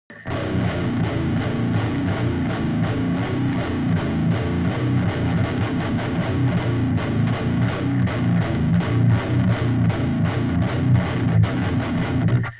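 Seven-string electric guitar with a Seymour Duncan Nazgul pickup, distorted by a Stomp Machines Prometheus overdrive pedal (a Revv G3-style drive) into an impulse-response cabinet, playing a fast, tightly picked metal riff. It starts just after the opening and cuts off sharply near the end.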